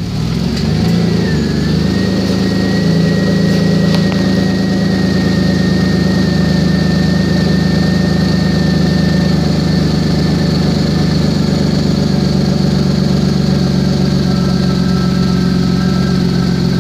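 2007 Chevrolet Malibu engine running steadily, its speed settling in the first couple of seconds, with a thin steady whine over the engine note. The engine has an exhaust leak.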